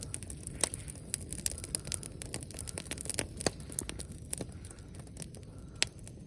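Bonfire crackling, with irregular sharp pops and snaps over a low rumble.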